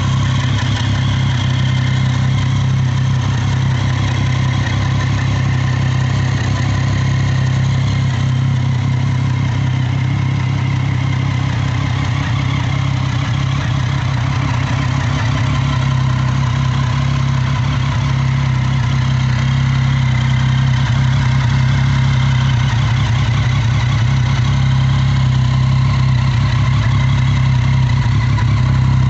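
Triumph Street Triple 675 R's 675 cc three-cylinder engine idling steadily through its exhaust, growing slightly louder over the last third.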